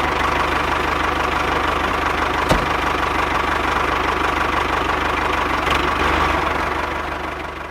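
An engine idling with a steady, fast knocking beat, fading out near the end, with one sharp click about two and a half seconds in.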